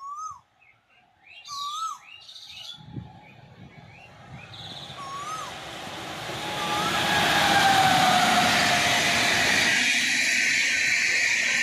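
Birds calling with a repeated rising-and-falling whistle and chirps, then a WAP-7 electric locomotive and its express coaches approaching and passing, the rush of wheels on rails growing louder from about three seconds in and holding steady from about seven seconds. A falling whine is heard as the locomotive goes by.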